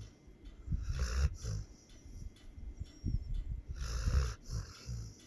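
Pit bull snoring: two snores, about a second in and again about four seconds in, each a low rumble with a hiss over it.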